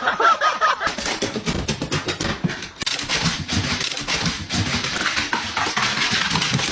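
A pet animal's sounds: a short wavering cry at the very start, then loud, busy noise throughout.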